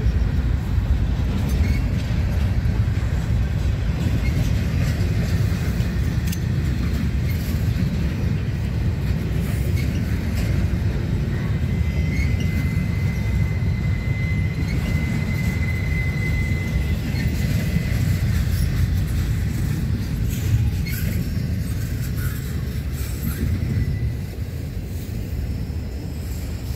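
A train rolling past, with a steady low rumble of wheels on rail and scattered clicks. A thin high whine sounds for a few seconds about halfway through.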